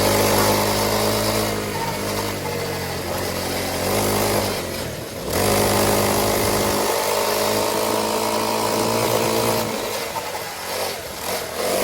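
Small motorcycle engine running at a steady speed while riding, easing off briefly about five seconds in and again after about ten seconds, with wind noise.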